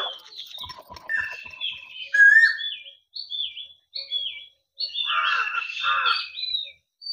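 Small birds chirping: a run of short, downward-sliding chirps repeated over and over, with a louder burst of calls about five seconds in. A few light knocks sound in the first second.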